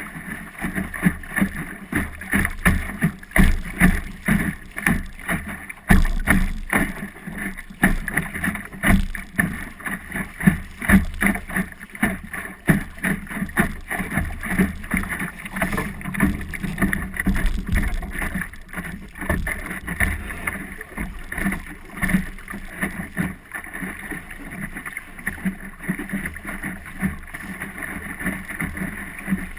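Wind and water noise aboard a small boat under way, with water splashing against the hull, wind buffeting the microphone, and frequent short knocks throughout.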